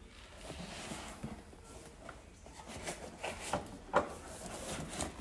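Cardboard packaging handled: faint rustling with a few light scattered knocks and taps.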